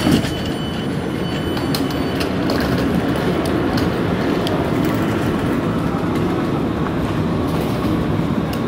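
S-Bahn suburban train running in an underground station: a loud, steady rail rumble, with a single knock right at the start.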